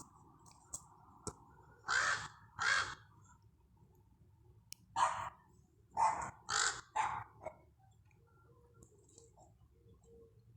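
Crows cawing harshly at a squirrel: two caws about two seconds in, then a quicker run of about five caws a few seconds later. These are agitated mobbing calls from an angry crow.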